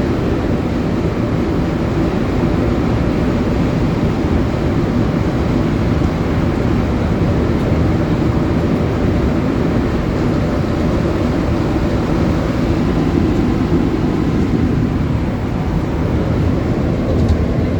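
Steady rumble of an MR-73 rubber-tyred metro train running through the tunnel, as heard inside the car.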